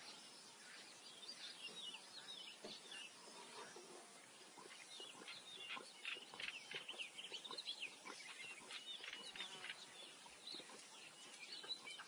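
Faint bird chirps and short calls over a low background hiss, growing busier about halfway through.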